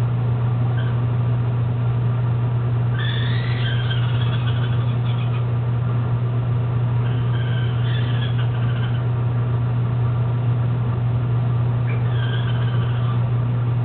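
A steady low hum throughout, with short, pitch-sliding bird calls breaking in three times.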